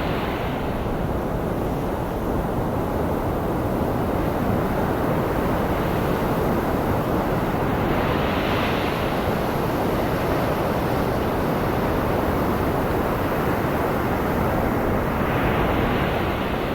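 Ocean surf blended with steady white noise: a continuous hiss with the surf swelling and easing roughly every seven to eight seconds, about three waves across the stretch.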